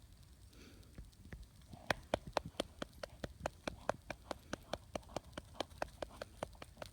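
A dog's footfalls on hard ground: a quick, even run of sharp taps, about five a second, starting about two seconds in.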